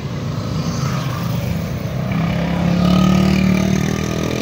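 Engines of a car and a motorcycle passing close by on the road, a steady hum that grows to its loudest about three seconds in and then eases off.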